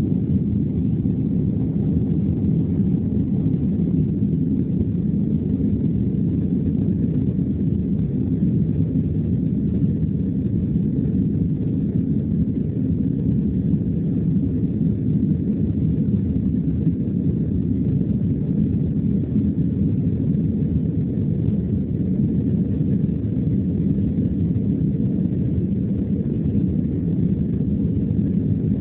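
Boeing 767-300 cabin noise with the engines at takeoff thrust: a steady, deep, unbroken rushing drone.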